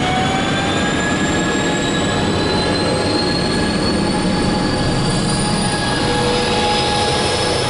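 MARC commuter train running past on the rails with a steady rumble, and several whining tones slowly rising in pitch as it gathers speed.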